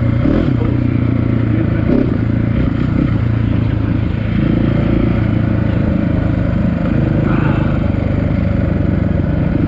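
Dirt bike engine running under way, its note shifting with the throttle, with a short dip about four seconds in before it picks up again.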